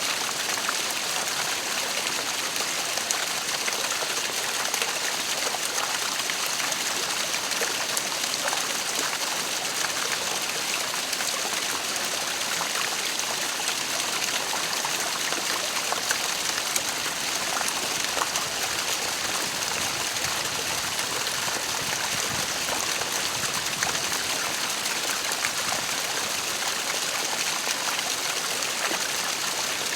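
Waterfall: steady rushing of falling water with small splashes.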